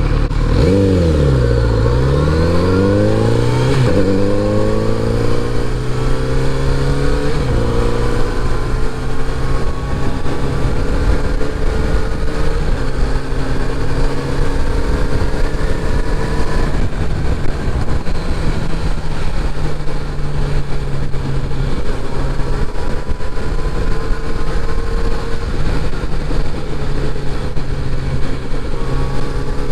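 Kawasaki Z900RS inline-four engine under way. Its pitch dips and climbs again in the first few seconds, drops sharply twice as if shifting up, and then runs at fairly steady revs with slow rises and falls.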